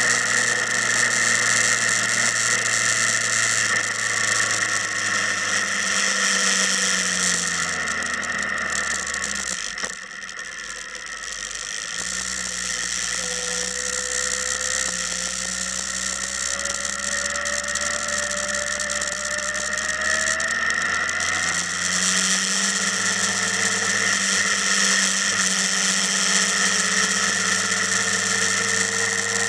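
Motorcycle engine running steadily, its pitch sinking about eight seconds in, a brief lull near ten seconds, then picking up again after about twenty-two seconds.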